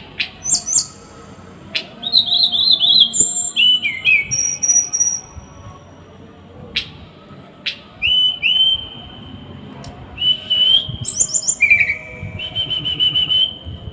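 Small songbird singing in quick runs of repeated harsh notes and sharp single chips, with short pauses between the runs. These are the rapid, harsh 'tembakan' bursts that are played to cage birds as a masteran training song.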